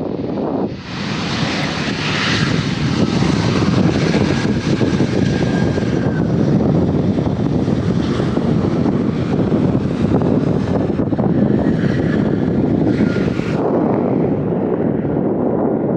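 Airliner's engines running loud as it passes close by, a dense rush with a faint steady whine over it. It cuts in abruptly about a second in and drops away sharply near the end.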